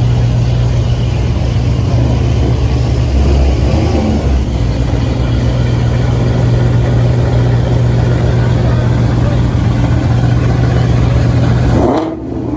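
Supercharged V8 of a Shelby GT500 Mustang running with a steady low rumble. It stops abruptly near the end.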